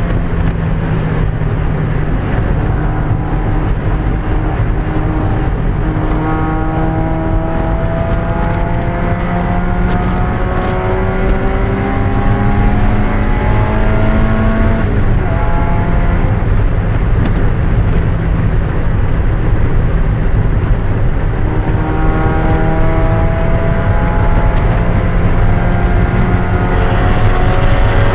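1995 Mazda Miata's 1.8-litre four-cylinder engine under full racing load, heard from the car. Its pitch climbs steadily for many seconds, drops suddenly about halfway through, then climbs again near the end.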